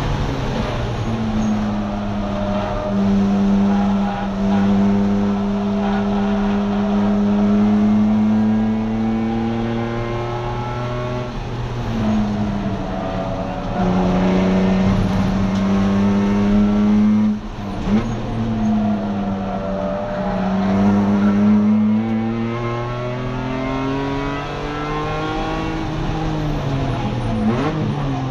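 BMW E46 track car's engine heard from inside the caged cabin, driven hard at racing speed. Its pitch climbs slowly under acceleration and drops back at each gear change or lift, several times, with one sharp break a little past the middle.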